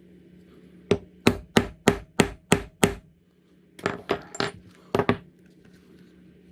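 Mallet blows on a leather-working tool: seven even strikes at about three a second, then after a short pause a looser group of about six knocks.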